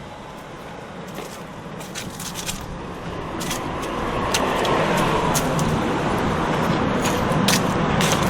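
Road traffic: a motor vehicle's engine and tyre noise building up from about three seconds in and staying close, with a few short clicks scattered through it.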